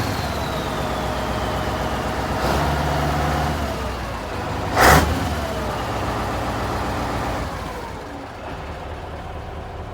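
Scania 142 truck's V8 diesel engine running, its pitch slowly falling as the revs drop. There is a short sharp burst about five seconds in, and the engine gets quieter for the last couple of seconds.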